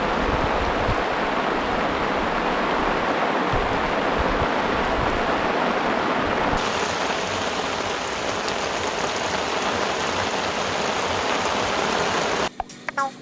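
Steady rain falling, an even hiss that turns brighter about halfway in and stops abruptly near the end.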